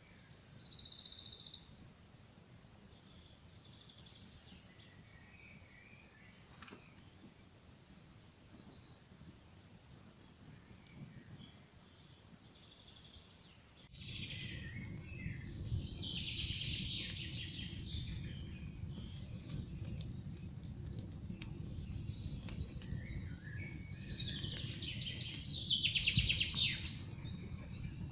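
Birds chirping and singing in a forest. About halfway the background abruptly grows louder, with a steady low rush and the fine snapping and crackling of a campfire under the birdsong, and a loud bird phrase near the end.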